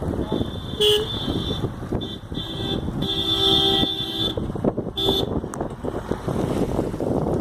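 A vehicle horn honks several times in short toots, with one longer honk lasting about a second around three seconds in, over the continuous noise of running engines.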